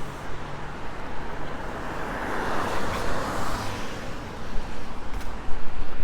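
A car passing on a wet, slushy road: tyre hiss swells to a peak a couple of seconds in, then fades away.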